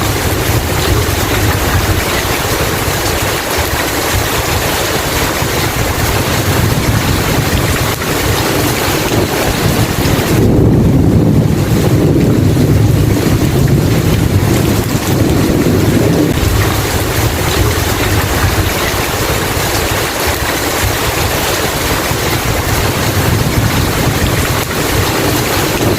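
Heavy rain pouring in a steady hiss, with a low rumble of thunder swelling about ten seconds in and rolling on for several seconds.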